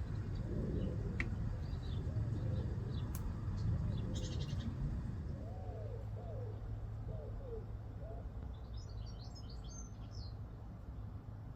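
Birds calling and chirping over a steady low background hum: a run of short, curved lower calls through the middle, then a quick cluster of high chirps near the end.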